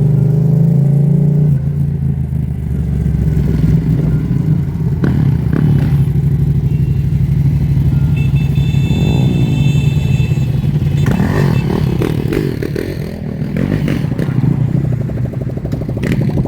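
Several motorcycle and dirt bike engines running and revving, with a clatter of mechanical noise. A high, steady whine joins in for about two seconds partway through.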